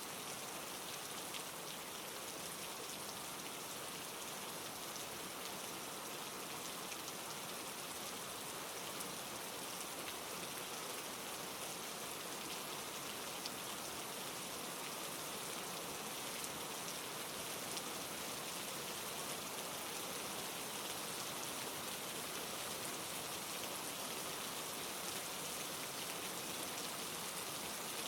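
Steady rain falling: an even wash of many small drops pattering, with no thunder.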